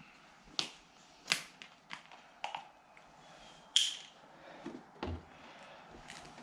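Scattered sharp clicks and light knocks of hands handling oil bottles and parts at the mower. The loudest click comes about four seconds in and has a brief ring.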